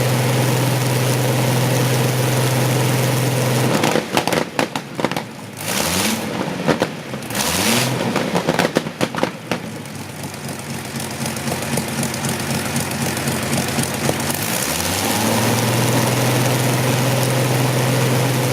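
Rolls-Royce Griffon V12 aero engine running steadily. About four seconds in it is throttled back to a low, uneven idle, with irregular popping and a couple of brief blips of the throttle. Near the end it is opened up again and rises back to steady running.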